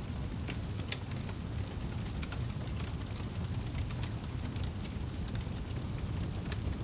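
Wood fire burning in a fireplace: a steady low rumble with scattered sharp crackles and pops from the burning firewood.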